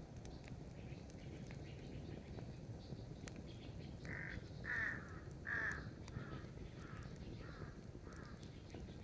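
A bird calling about four seconds in: a run of about seven calls roughly half a second apart, the first three the loudest and the rest fainter.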